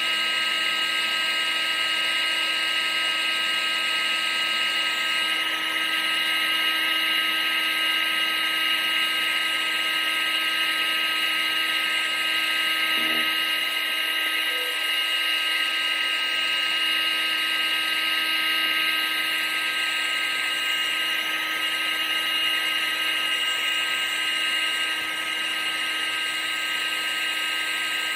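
Vacuum cleaner running steadily: a continuous motor whine with a high tone over a rushing hiss of air.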